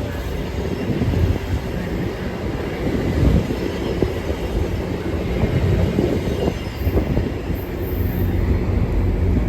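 Train rolling past on the rails: a steady, heavy low rumble that does not let up.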